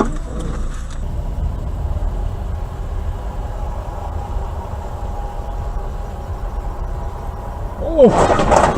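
Steady low rumble of a car driving, engine and tyre noise heard inside the cabin. Near the end comes a sudden loud burst with a falling cry-like pitch.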